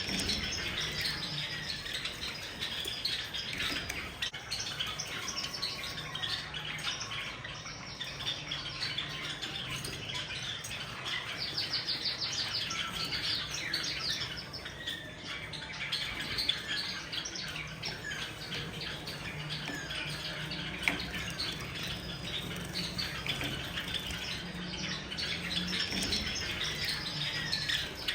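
Several Java sparrows chirping continuously, their short, high calls overlapping, with a quick run of chirps about halfway through.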